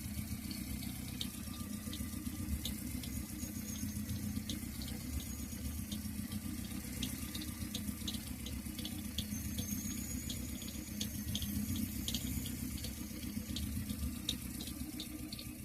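Car engine idling with its alternator belt running quietly and no chirp, the belt having been treated with paraffin wax. It is a steady low hum with faint light ticks scattered through it.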